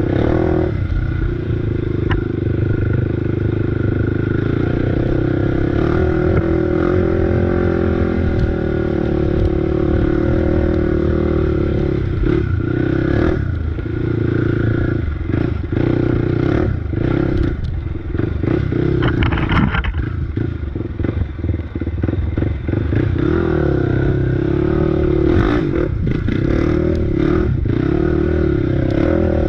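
Single-cylinder off-road engine running under constantly changing throttle while riding a rough trail, its pitch rising and falling, with rattling and scraping from the machine over the ground.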